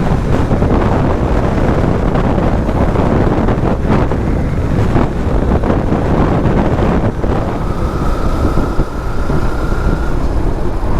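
Wind rushing over the microphone of a moving motorcycle, with the bike's engine and road noise underneath. A faint steady high tone comes in for a couple of seconds near the end.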